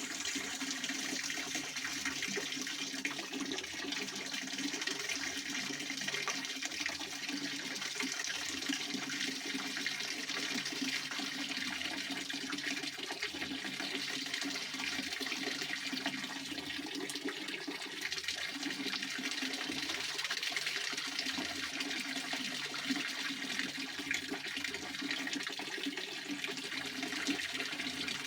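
Pond fountain splashing steadily, a constant rush of falling water.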